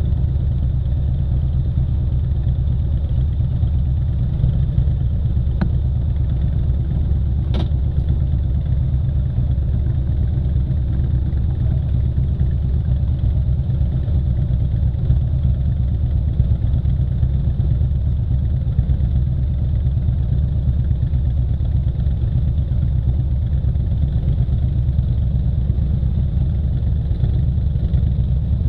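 Motorcycle engine running steadily while riding, a constant low drone, with two brief clicks a few seconds in.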